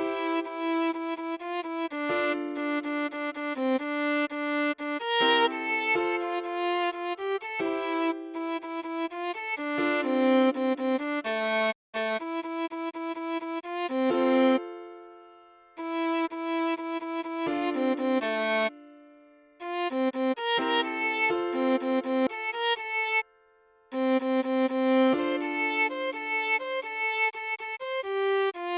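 Solo viola playing a melody note by note, mostly short notes in quick succession. Twice about halfway through a held note fades away into a brief pause, and there is one more short break near the end.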